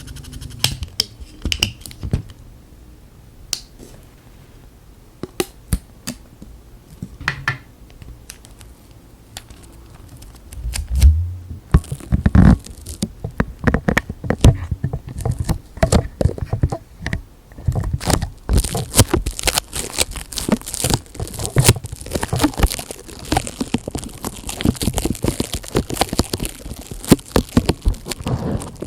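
Close-miked ASMR handling sounds: scattered taps and clicks, then from about eleven seconds in a dense run of crinkling, crackling and tearing, as of plastic film or tape worked right at the microphone, busier in the second half.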